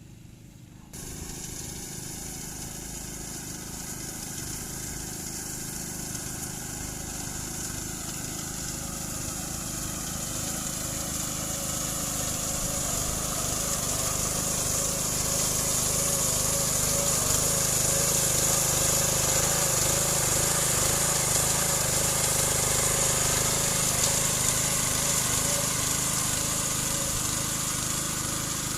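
Small gasoline engine of a walk-behind rice reaper running steadily as it cuts rice. It grows louder as it comes closer, is loudest about two-thirds of the way through, then eases slightly.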